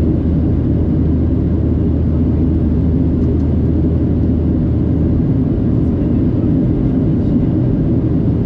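Steady cabin noise inside a Boeing 737-700 climbing after takeoff. It is a continuous low rumble of its CFM56-7B engines and airflow, with a steady low hum underneath.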